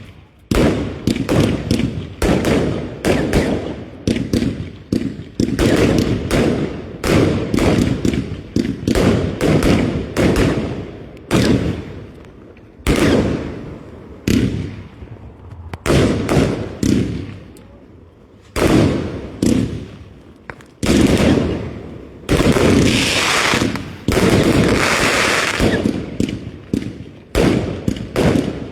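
Fireworks going off in quick succession: a long run of loud, sharp bangs, one or two a second, each trailing off in an echo. About two thirds of the way through there is a few-second stretch of dense crackling hiss.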